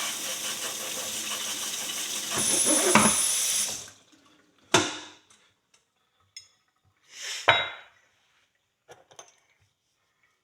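A tool hissing steadily while clearing debris from a horseshoe's nail holes, cutting off abruptly about four seconds in. Afterwards there are a few separate short knocks and scrapes.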